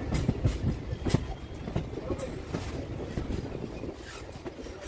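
Electric local train (EMU) running over track points as it crosses from one line to the next: irregular wheel clacks over the switches and crossings, the loudest about a second in, over a steady low running rumble.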